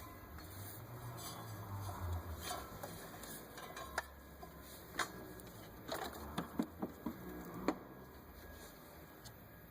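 Scattered light clicks and taps from hands working a rubber serpentine belt around the engine's pulleys, most of them in a cluster between about four and eight seconds in, over a low steady hum.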